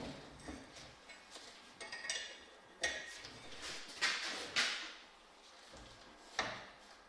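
Light metallic clinks and rattles of hard parts being handled: a few with a short ringing tone about two and three seconds in, and a louder clatter around four to five seconds.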